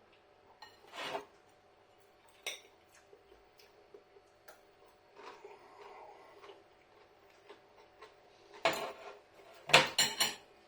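Cutlery clinking and scraping against a plate or bowl as food is picked up. A few scattered sharp clicks are followed by a louder cluster of clinks near the end.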